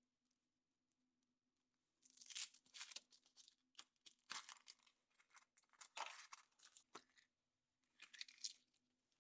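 Thin foil wrapper of a chocolate surprise egg being torn and crinkled off by hand, in a run of crackly bursts starting about two seconds in and a last short burst near the end.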